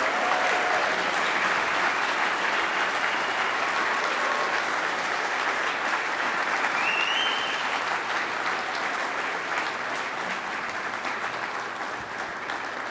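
Audience applauding: sustained clapping from a large crowd, easing off slightly near the end.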